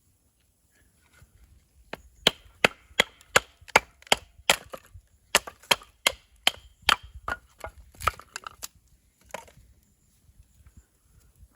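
Wood being chopped: a quick run of sharp wooden knocks, two or three a second, starting about two seconds in and stopping about two seconds before the end.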